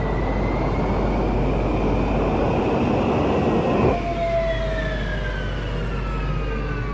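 Jet engine roar swelling, then cutting off abruptly about four seconds in, followed by a falling whine as the engine spools down: an Airbus A330 engine flaming out from fuel starvation.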